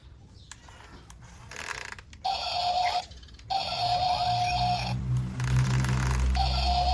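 A small electric motor, the kind that drives a homemade RC excavator, runs in three short bursts with a steady whine. Each burst starts and stops sharply. A low rumble comes in near the middle and lasts to the end.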